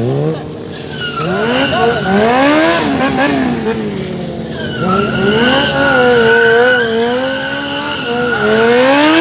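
Motorcycle engine revved hard, its pitch climbing and dropping again and again. A steady high squeal runs alongside during the second half.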